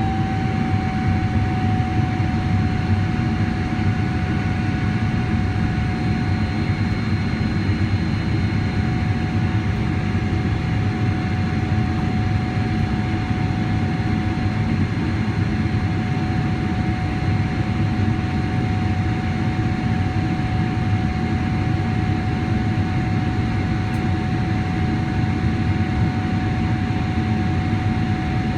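Boeing 777-300ER jet engines and airflow heard from inside the passenger cabin: a steady rumble and rush of air with a steady engine whine running through it.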